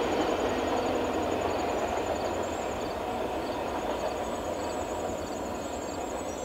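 Freight train of autorack cars rolling away on the rails, a steady rumble of wheels on track that slowly fades.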